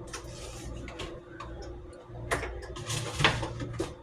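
Light clicks and knocks of containers being handled and set on refrigerator shelves, the busiest stretch in the second half, over a steady low hum.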